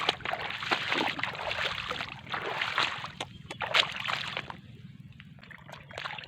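Shallow water sloshing and splashing, with scattered clicks and knocks mixed in; it dies down about four and a half seconds in.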